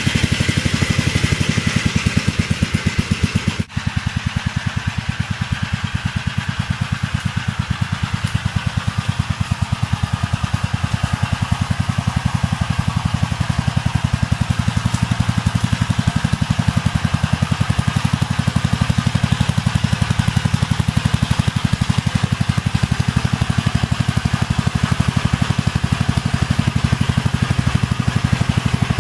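Gravely tractor engine running steadily under way, a rapid even stream of firing pulses, with a brief dip in level about four seconds in.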